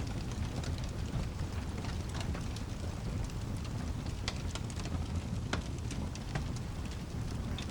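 Cabin ambience of steady rain with a crackling fireplace: a continuous low rumbling hiss with scattered sharp crackles and pops.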